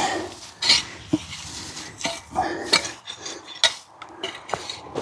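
Irregular knocks, clinks and scrapes from potatoes being dug up by hand and tossed into a container, with a few sharper knocks standing out.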